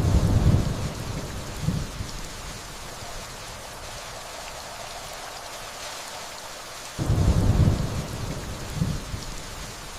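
Steady rainfall with two low rumbles of distant thunder, one at the very start and one about seven seconds in. Each rumble starts suddenly, lasts a couple of seconds, and has a smaller second roll about a second and a half later.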